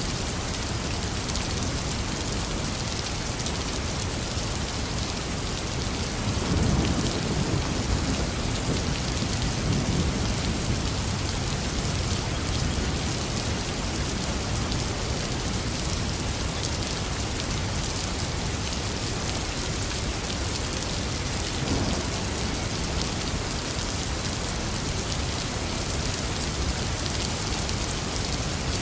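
Heavy rain pouring steadily. A low rumble of thunder swells about six seconds in and dies away over a few seconds, with a brief, smaller low thump about three quarters of the way through.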